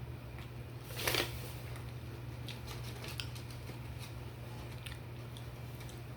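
A crunchy bite of food about a second in, followed by quiet chewing and mouth clicks, over a steady low hum.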